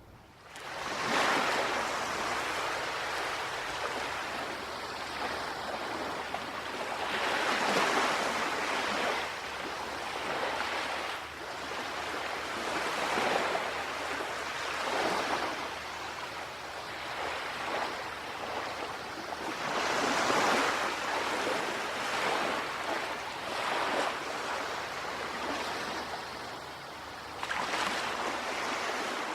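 Sea surf: waves washing in, the rush swelling and fading back every few seconds.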